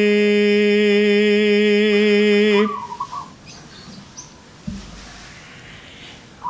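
A man's voice holds one long sung note in a slow Javanese kidung, ending about two and a half seconds in. A perkutut (zebra dove) then gives a short cooing phrase, falling and then wavering, and coos again at the very end, with a quiet stretch and a soft thump between.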